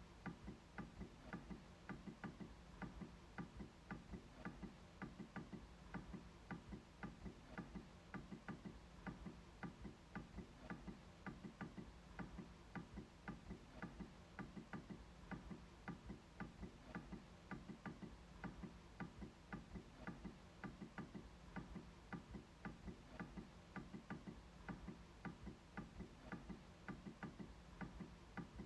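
MacBook trackpad being clicked over and over: faint, sharp clicks in a steady run of a few per second, some in quick pairs like a press and release.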